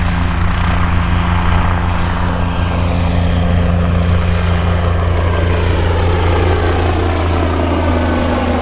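Helicopter overhead: a steady low rotor beat and engine noise, with a slight fall in pitch during the second half.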